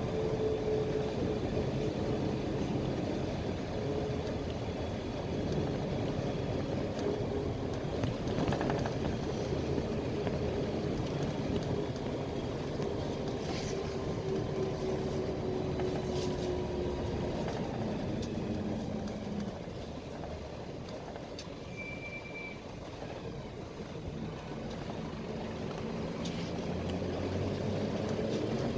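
PAZ Vector Next bus's diesel engine and drivetrain heard from inside the bus on the move. The engine note sinks slowly for most of the stretch as the bus slows, goes quieter for a few seconds, then climbs again near the end as it pulls away. A short high beep sounds about two-thirds of the way in.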